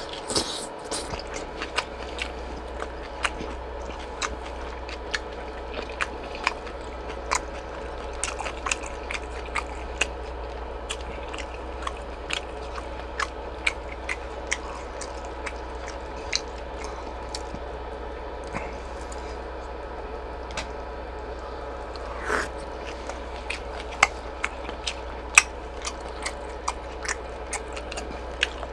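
A person chewing boiled pork slices (suyuk) close to the microphone. Frequent sharp, wet mouth clicks and smacks come at an irregular pace of a few a second, over a steady low hum.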